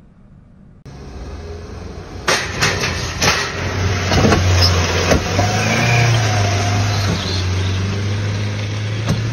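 Car engine running with a steady low drone under road and wind noise as the car is driven tilted on two wheels, starting about a second in, with a few sharp knocks about two and three seconds in.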